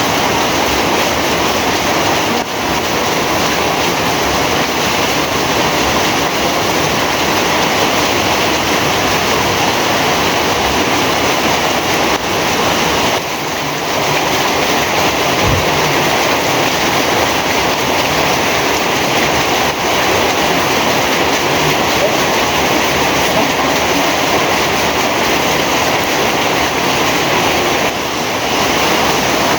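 Heavy rain falling, a loud, dense and steady hiss.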